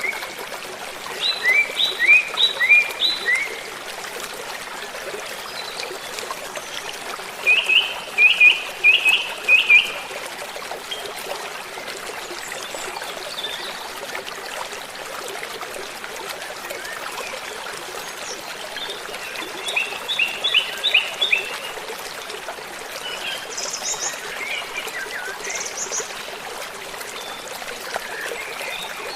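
Songbirds singing in short bursts of quick repeated chirps, four or five separate phrases, over a steady hiss of running water.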